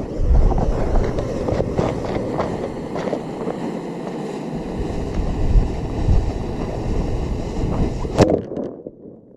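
Homemade sugar rocket motor burning: a loud, rough rushing with crackles for about eight seconds, ending in a sharp pop and dying away.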